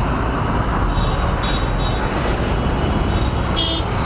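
Steady road traffic noise, with a brief high-pitched tone near the end.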